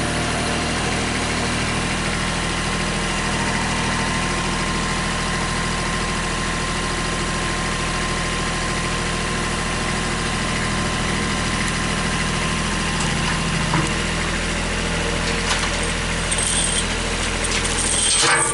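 Engine of the log-handling machinery idling steadily, with a few short clicks and knocks near the end.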